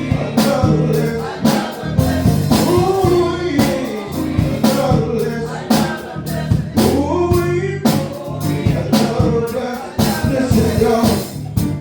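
Gospel song with a man singing over a church band, drums keeping a steady beat.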